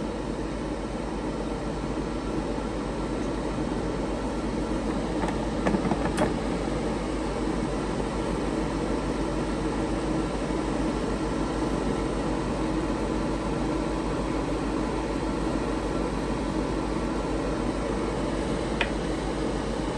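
Hot air fryer running at high heat, its fan whirring steadily with a constant hum, with a few light clicks around six seconds in and once near the end.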